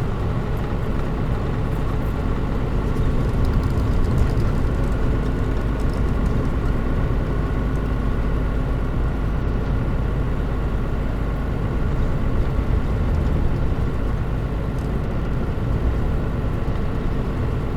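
Mitsubishi Fuso KL-MP37JM non-step diesel city bus running at a steady pace, heard from inside the cabin: an even engine drone with road noise and a faint whine. The air conditioning is off.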